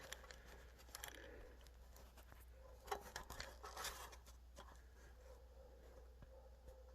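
Near silence: a steady low hum with a few faint clicks and taps, about a second in and again around three to four seconds in.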